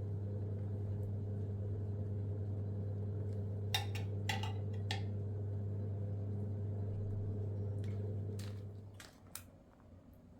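A steady low electric hum, like a household appliance running, holds level and then stops shortly before the end. A few light clicks and taps come through in the middle and again near where it stops.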